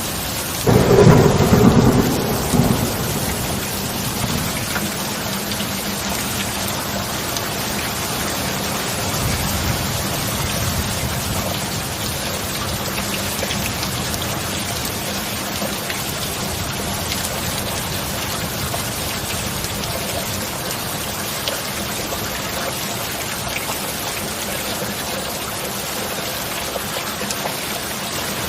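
Thunderstorm: a loud thunderclap about a second in, rolling away over two seconds, then steady heavy rain, with a softer low rumble of thunder near the middle.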